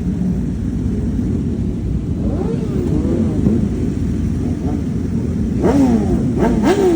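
Several motorcycles running past, their engines rumbling steadily with revs rising and falling. The loudest revving comes in the last couple of seconds.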